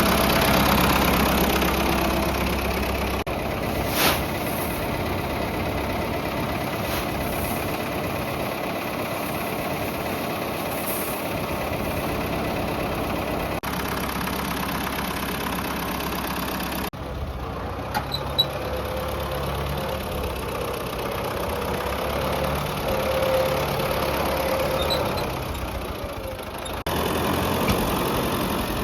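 Ford 5000 tractor engine running steadily, its sound shifting abruptly a few times, with a couple of short clicks.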